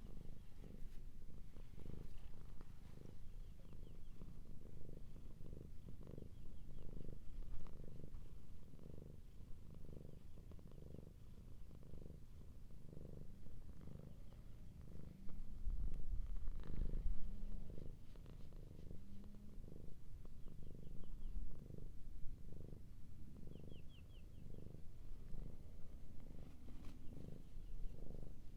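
A cat purring, a low steady pulsing of about one beat every three-quarters of a second, louder for a moment midway. Faint bird trills sound in the background.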